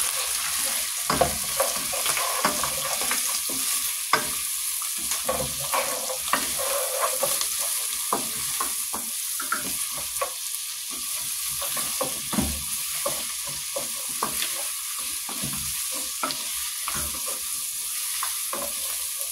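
Food frying in a pot with a steady sizzle while it is stirred, the spoon scraping and knocking against the pot at irregular intervals.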